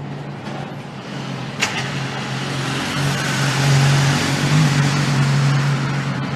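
A steady machine hum with a sharp click about one and a half seconds in; the hum and a rushing noise grow louder in the middle, then ease off near the end.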